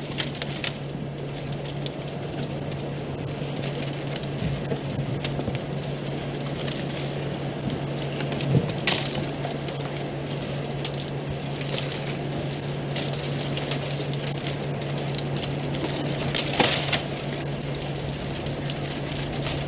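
Steady low hum under scattered crackles and snaps of dry vegetation as elephants move and feed close by, with a louder crackle about nine seconds in and another near sixteen seconds.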